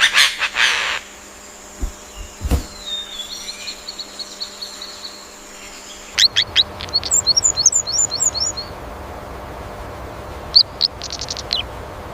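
Songbirds chirping: a few loud sharp calls at the start, then strings of short high chirps and a quick trill later on, over a steady background hiss that gets louder about six seconds in.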